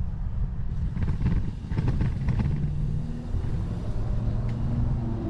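Wind buffeting the camera microphone and the low rumble of a bicycle rolling along a paved path, with a low steady hum joining in the second half.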